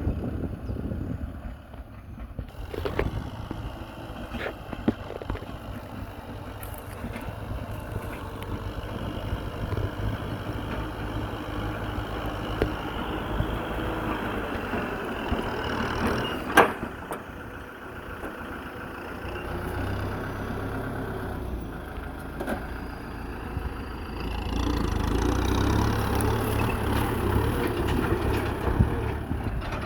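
Kubota M6040 tractor's four-cylinder diesel engine running steadily under field load, its level rising and falling and getting louder in the last few seconds. A single sharp click sounds a little past halfway.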